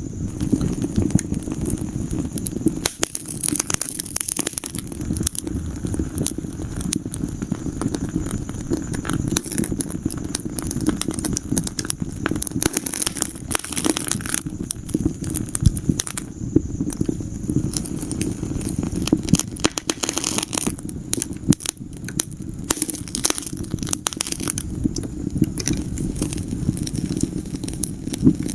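Wood fire crackling in a fireplace: a steady low rumble of burning with many sharp pops and snaps scattered throughout.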